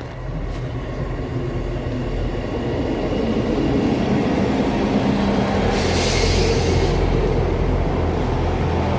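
Class 159 diesel multiple unit's underfloor diesel engines running, growing louder over the first three seconds and then holding steady. A short hiss of air comes about six seconds in.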